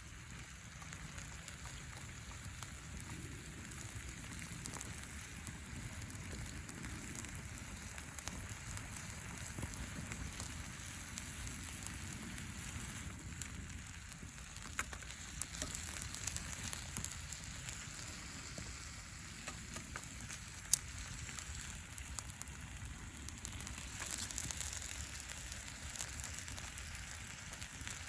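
Wood campfire crackling with scattered small pops over a steady hiss, and one sharp pop about 21 seconds in.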